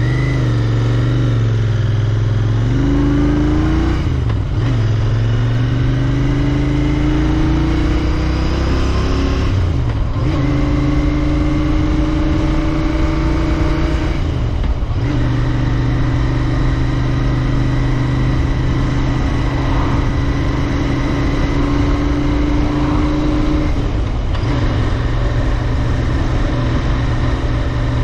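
Royal Enfield Interceptor 650's 648 cc parallel-twin engine under way. Its note climbs under throttle, then holds steady at cruise, with short breaks about four times where the throttle closes, as for gear changes.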